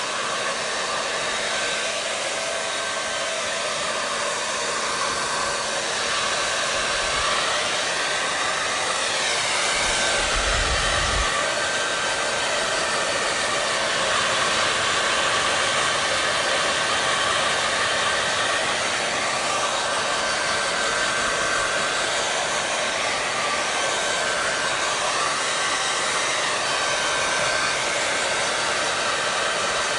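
Hair dryer running steadily, a continuous rush of blown air whose tone slowly swirls and shifts. A brief low rumble comes about ten seconds in.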